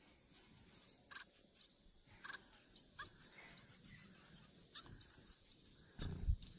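Faint, short high chirps from small munias, scattered irregularly, with a brief low rumble near the end.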